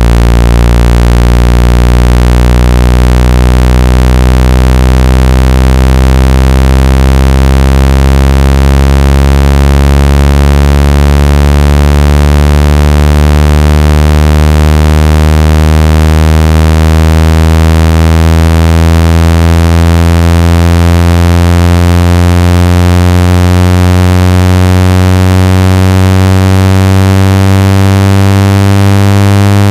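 Loud synthesized buzzing tone, thick with overtones, gliding slowly upward in pitch from a deep hum: a phone-speaker water-ejection sweep meant to shake trapped water out of the speaker.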